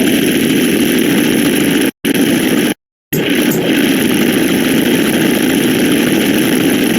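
Many digital sound effects stacked into one loud, dense, continuous din. It cuts to dead silence twice, briefly about two seconds in and again for a moment just before three seconds.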